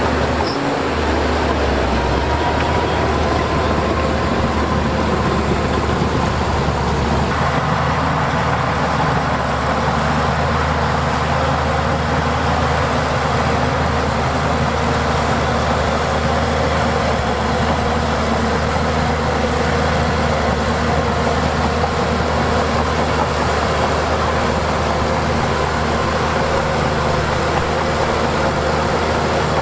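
Heavy diesel engine of earthmoving equipment running steadily, with its note changing about seven seconds in.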